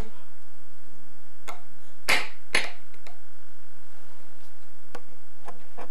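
A few short, sharp knocks, the loudest about two seconds in.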